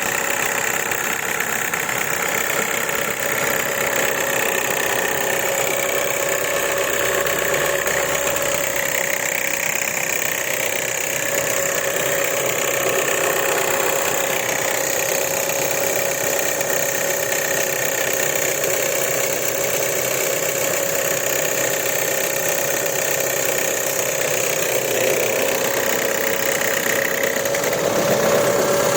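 Renault Laguna III 2.0 petrol engine idling steadily, with a knock whose source the owner cannot pin down.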